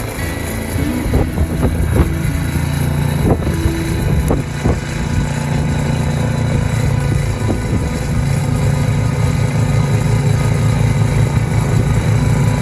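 An engine running steadily with an even low pulse, with a few short knocks in the first few seconds.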